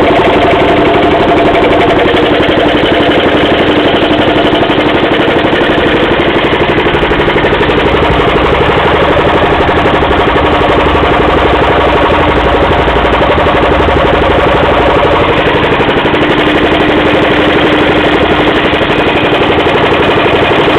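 Bernard W110 bis four-stroke petrol engine, 240 cc and 5 hp, running steadily on a Rotobloc motor pump with a rapid even firing beat.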